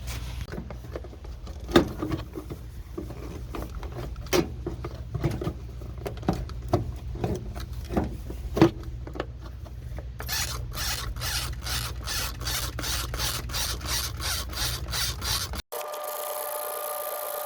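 Irregular plastic clicks and knocks of a squeeze bottle being worked in a power steering reservoir to draw out old fluid, over a low hum. About ten seconds in, the clicking turns fast and regular, about four a second. Near the end it cuts off suddenly to a different, steady tone.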